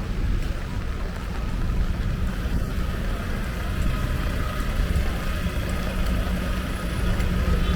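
Steady low rumble of city street traffic on a wet, rainy avenue.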